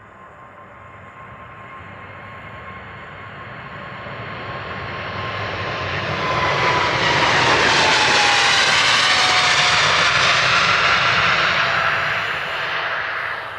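Boeing 777-300's twin jet engines at takeoff power as the airliner passes. The engine noise builds steadily, holds at its loudest for several seconds with a whine dropping in pitch as the plane goes by, and begins to fade near the end.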